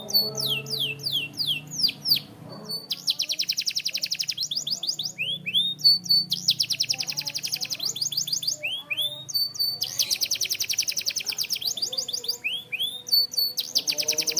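Domestic canary singing: long, fast trills of rapidly repeated notes alternating with slower runs of falling whistled notes.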